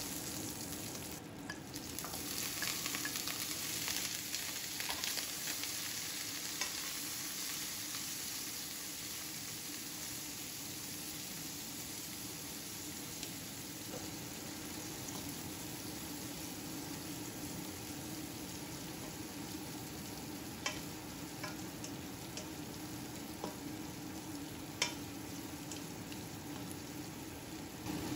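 Garlic slices and shrimp frying in hot oil in a stainless steel wok: a steady sizzle, stirred now and then, with a few sharp clicks standing out near the end.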